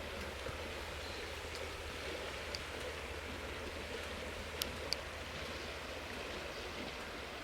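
Steady outdoor background noise with a few faint sharp clicks, two of them close together about four and a half seconds in.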